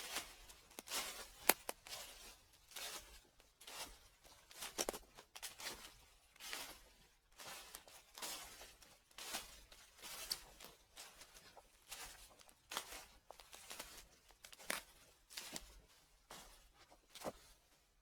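Footsteps crunching through fallen leaves at a slow, steady walk, about one crunch a second.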